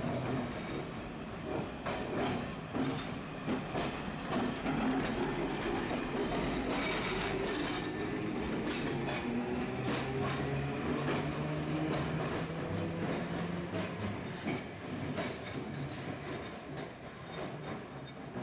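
Tosaden street tram running, heard from inside the car: wheels clicking over rail joints over steady running noise, with a traction-motor whine that rises in pitch through the middle. It grows quieter over the last few seconds.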